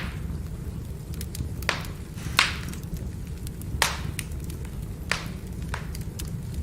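Firewood burning: sharp crackling pops, about five loud ones and several faint ticks spaced irregularly, over a steady low rumble of the fire.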